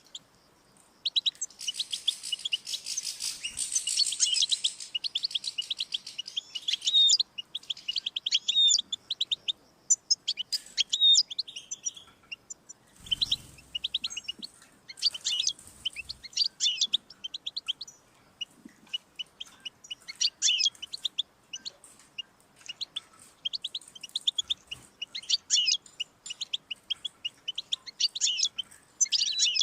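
European goldfinch singing: a long run of fast, high twittering chirps and trills, densest in the first few seconds. About halfway through there is a brief dull noise.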